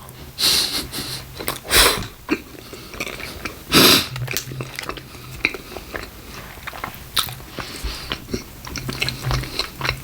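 Close-miked biting and chewing of a stacked beef burrito: wet mouth clicks and smacks, with louder bites about half a second, two and four seconds in.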